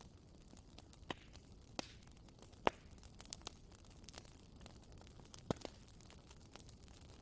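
Wood bonfire burning with a soft steady hiss and irregular crackles, with a few louder sharp pops, the loudest about two and a half seconds in and another about five and a half seconds in.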